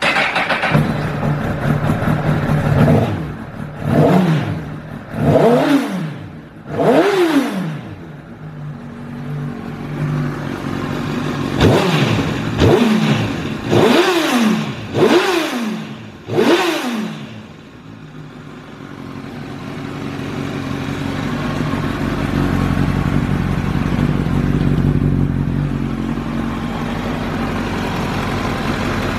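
Honda CBR1000RR SC57 inline-four engine, breathing through a Yamamoto Racing full exhaust system, catching right at the start. It is blipped through two sets of quick revs, four or five sharp rises and falls in each. It then settles into a steady idle, the note creeping up slightly.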